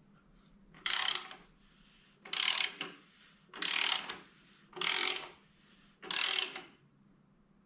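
Hand ratchet wrench clicking in five separate strokes, each about half a second long and roughly a second and a quarter apart, as a bolt is worked loose during an engine strip-down.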